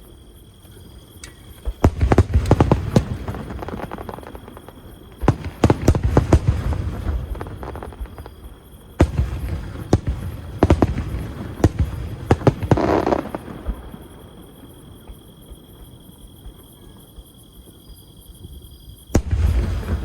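Fireworks exploding in volleys. Each volley is a dense run of booms and crackles: one about 2 s in, one about 5 s in, a longer run from about 9 to 13 s, and another near the end, with quieter lulls between them.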